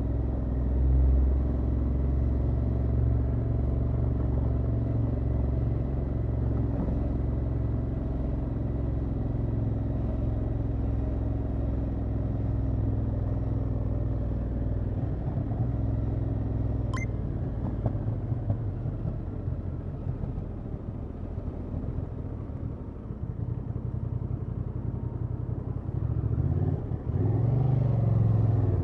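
Honda XL750 Transalp's 755 cc parallel-twin engine on the stock exhaust, running steadily under way. About halfway through it drops to a lower, choppier note as the throttle eases off, with one sharp click partway through. Near the end it picks up again under throttle.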